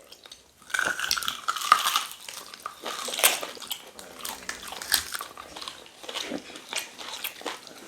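Close-miked chewing and biting on cow tail meat in pepper soup: irregular wet clicks and mouth noises.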